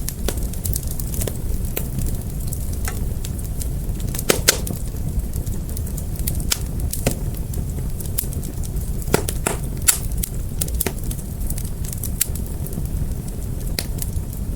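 Fire crackling: a steady low rumble with irregular sharp pops, louder ones about four seconds in and again near ten seconds.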